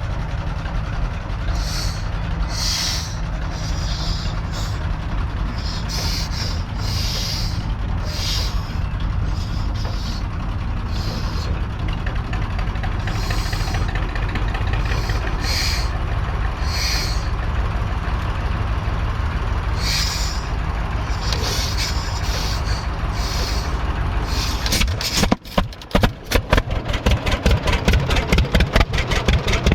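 A steady low engine drone with short bursts of hissing. About 25 seconds in, the 1926 John Deere Model D's two-cylinder engine fires and settles into a fast, even beat of sharp exhaust pops.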